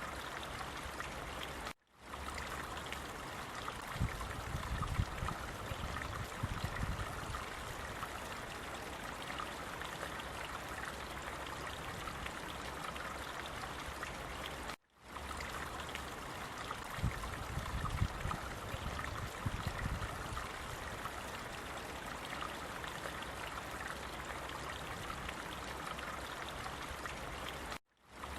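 Flowing stream water running steadily, with a deeper rumbling surge every so often. It cuts out for a split second twice, where the recording restarts.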